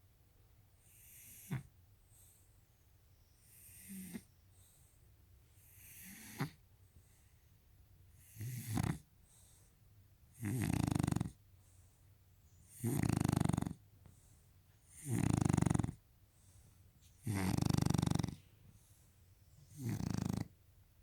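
Shar Pei dog snoring in its sleep, one breath about every two and a half seconds. The first few breaths are soft, each ending in a short snort. From about eight seconds in, the snores turn loud and last about a second each.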